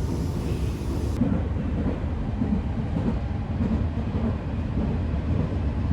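A steady, loud low rumble with a noisy texture, like a vehicle running.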